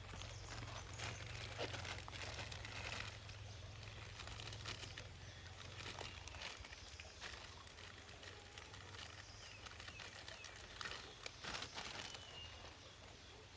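Crinkling and rustling handling noises with scattered small clicks, like a plastic wrapper being handled. A bird calls faintly near the end.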